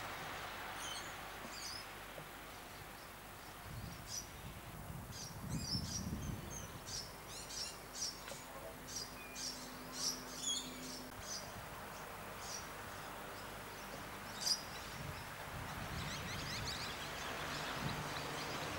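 Small birds chirping in short, repeated high calls over faint background noise. Near the end a steady noise grows louder as a train draws near.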